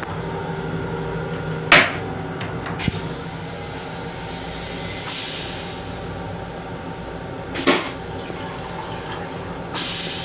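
Running noise of a Long Island Rail Road M7 electric train car, a steady rumble. Two sharp knocks come about two and eight seconds in, and two short hisses come about five seconds in and near the end.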